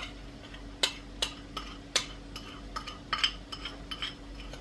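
Cookie mixture being stirred in a bowl: a utensil knocks and scrapes against the bowl in irregular clicks, about two a second.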